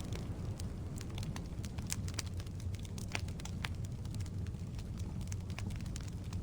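Firewood burning in a fireplace: a steady low rumble of flame with frequent irregular sharp crackles and pops.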